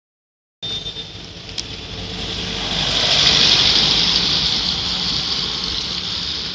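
Steady rain hiss with a vehicle going by on the wet road, its engine hum underneath and the spray swelling a few seconds in before easing off.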